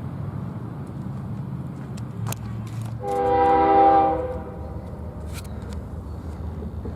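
Locomotive air horn sounding one short multi-note blast of a little over a second, about three seconds in, over a low rumble.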